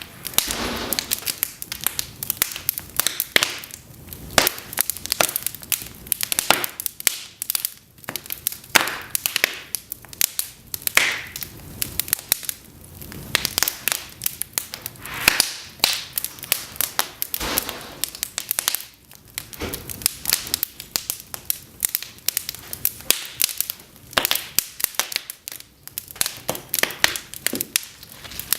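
Cedar logs burning in an open fireplace, crackling and popping continuously with frequent sharp snaps at irregular intervals and a soft hiss underneath.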